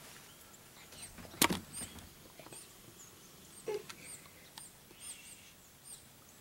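A small bird chirping over and over in short, high notes. A single sharp knock about a second and a half in is the loudest sound.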